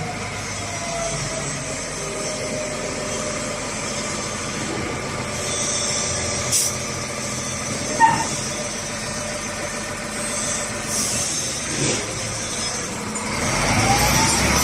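SDLG LG956L wheel loader's Caterpillar diesel engine running, its pitch slowly dropping over the first seconds. There are two short sharp clicks around the middle, and the engine speeds up again near the end.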